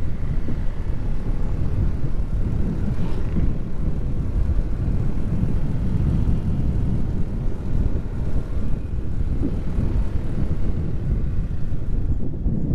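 Steady low rumble of wind buffeting the microphone, fluctuating rapidly without letting up.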